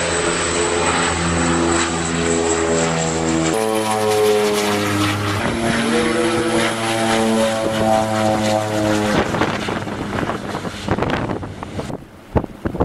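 Propeller plane's engines running at full takeoff power, a steady droning hum whose pitch jumps a couple of times. Near the end it gives way to wind buffeting the microphone.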